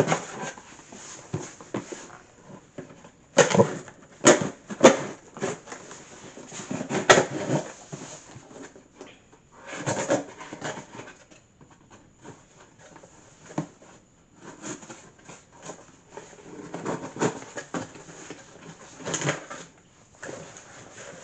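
A delivered package being handled and opened by hand: irregular rustling, scraping and knocking, with a few sharp bumps in the first half.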